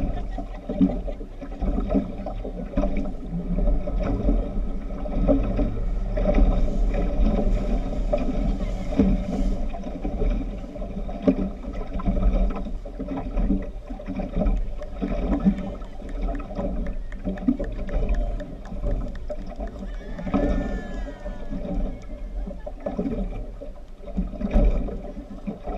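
Fast tourist speedboat running on the water: a steady low engine rumble and rushing water noise that swells and fades, with occasional voices.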